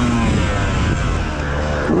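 Beta 125 two-stroke enduro motorcycle engine coming off the throttle: the revs fall as it begins and it runs low and uneven, then starts to pick up again near the end.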